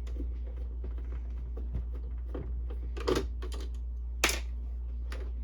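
Scattered clicks and knocks of plastic printer parts being handled during disassembly of a Canon Pixma printer/scanner, the sharpest a little past three seconds in and about four seconds in, over a steady low hum.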